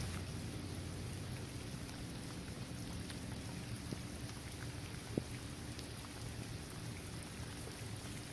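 Steady rain falling on a hard court, trees and grass, with scattered drop ticks and one sharper drop hit about five seconds in. A steady low rumble runs underneath.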